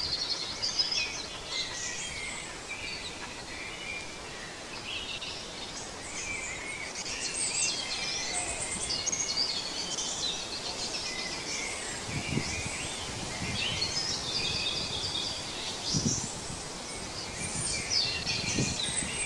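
Several small songbirds chirping and trilling over a steady outdoor background hiss, with three soft low thumps in the second half.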